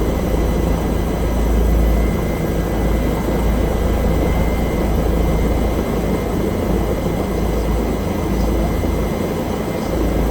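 Bell helicopter running steadily, its turbine and rotor noise heard from inside the cabin as a dense, even drone with a deep low rumble and a thin steady whine on top.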